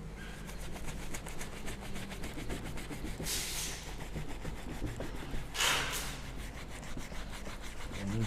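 Brush scrubbing the rubber seal of a car headlight, a fast run of scratchy strokes, broken twice by a short loud hiss about three and five and a half seconds in.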